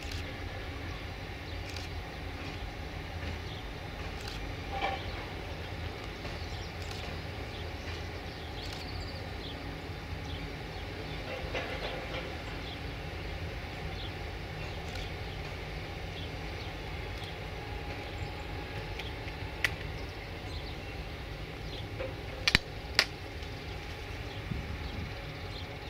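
Train at a station: a steady low rumble with a few sharp clanks, the two loudest close together near the end.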